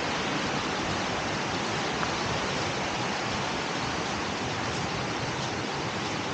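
Steady rushing of water from a forest stream or waterfall, an even hiss with no breaks.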